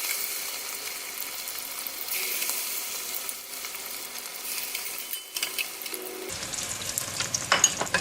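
Tempura-battered chicken wings deep-frying in hot oil: a steady sizzle with scattered crackles, and a burst of sharper, louder crackles near the end.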